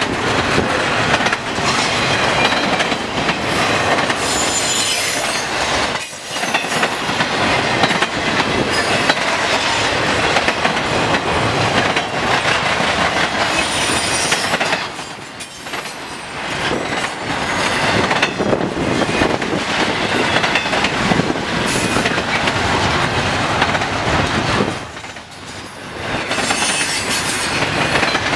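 Double-stack intermodal freight cars rolling past at speed: a loud, steady rumble and clatter of steel wheels on the rail, with a high wheel squeal now and then. The noise drops briefly three times, about six, fifteen and twenty-five seconds in.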